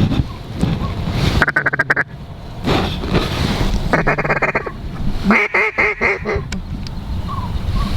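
Duck quacking in three quick runs of rapid, pulsed quacks, about a second and a half in, at four seconds and again around five and a half seconds, over wind on the microphone.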